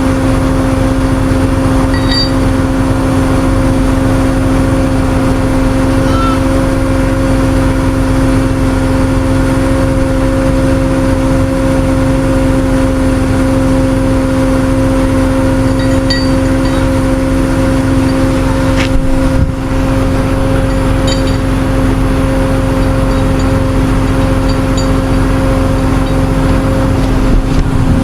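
A vehicle engine running steadily at a constant speed, with an even hum over a low rumble and a few faint light ticks.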